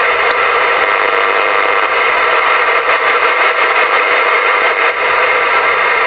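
CB radio receiver static: a steady, loud hiss with no words coming through. The distant station is too weak to make out, just in the noise.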